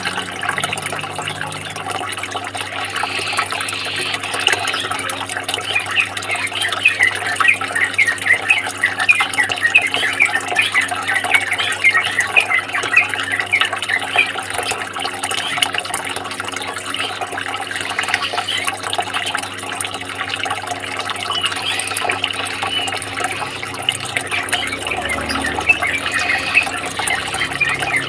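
Steady running water, a continuous trickling and splashing with many small dense droplet sounds.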